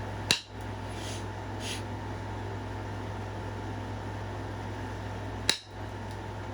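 Flintknapping: two sharp clicks of stone flakes breaking off the piece being worked, one just after the start and one near the end, with a couple of faint ticks about a second in. A steady fan-like hum runs underneath.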